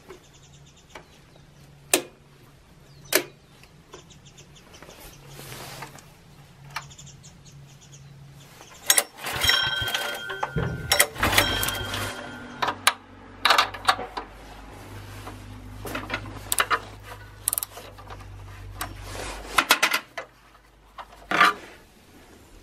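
Handling noises: scattered sharp knocks and a cluster of ringing metallic clinks about nine to thirteen seconds in, over a faint low hum.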